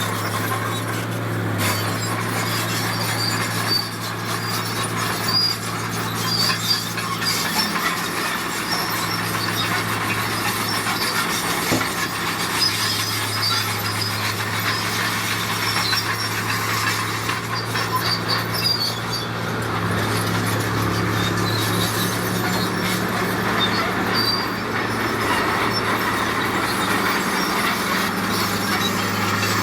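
A bulldozer working: its diesel engine runs at a steady speed under intermittent high metallic squeals from the steel crawler tracks.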